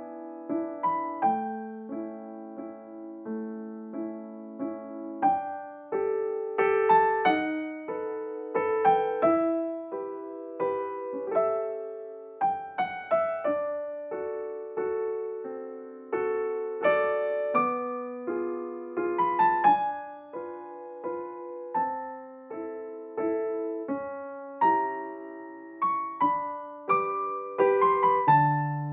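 Background piano music: a gentle melody of struck notes with chords.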